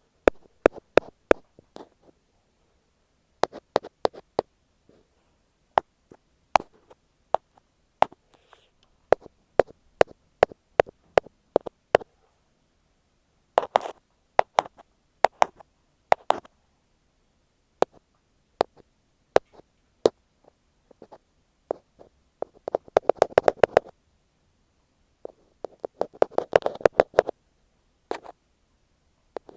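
Ear pick tapping on an earphone microphone: sharp, separate taps in irregular groups, with two flurries of rapid tapping in the last third.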